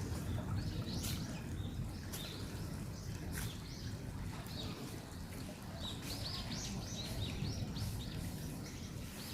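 Small birds chirping in short, high calls, thickest in a run about six to seven seconds in, over a steady low rumble.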